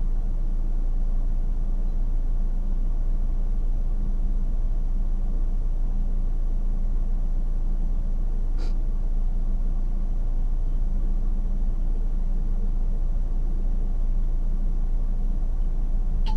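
Steady low rumble of a car driving, heard from inside the cabin, with one brief faint click about two-thirds of the way through.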